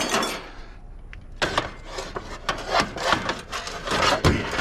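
Scrap items being handled and shifted: scraping and rubbing, then a run of knocks and clatters with a dull thump near the end.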